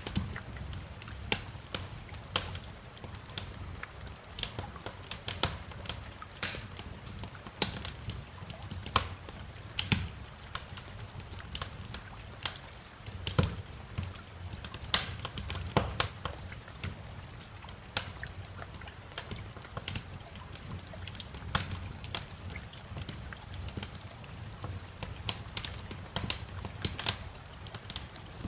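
Wood fire in a fireplace crackling, with irregular sharp pops and snaps, a few much louder than the rest, over a low steady rumble.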